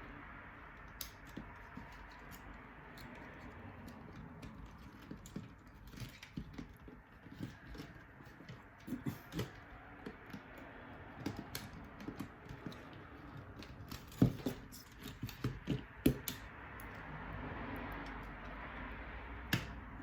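Irregular small clicks and taps, as of small parts and tools being handled during a drone repair, over a steady low hiss; the clicks come more often in the middle and later part, with the sharpest two a little past the middle.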